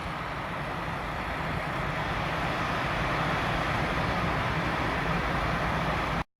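Urban road traffic at a roundabout: a steady rush of passing vehicles that swells slightly, then cuts off abruptly about six seconds in.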